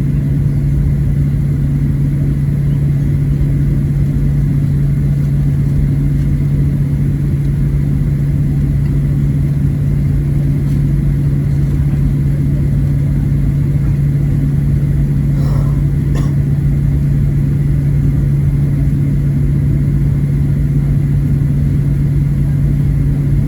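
Steady cabin drone of a Boeing 737-700 taxiing on its CFM56-7B engines at idle thrust: an even, loud rush with a strong constant low hum.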